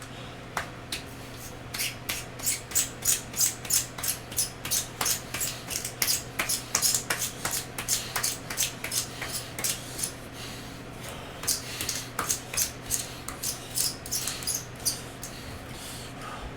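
Pencil being sharpened in a manual pencil sharpener: fast, rhythmic scraping strokes of the blade cutting wood, about three or four a second, pausing briefly twice.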